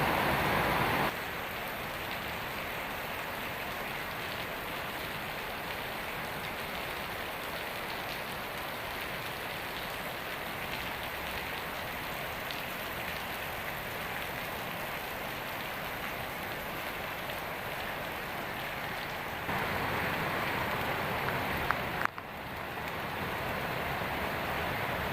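Heavy rain falling, a steady even hiss of rain on surfaces. It gets louder about twenty seconds in, with a brief click and dropout a couple of seconds later.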